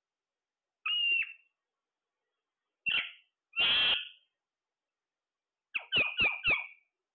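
A parrot giving short squawking calls: one about a second in, two more around three to four seconds in, then a quick run of four near the end.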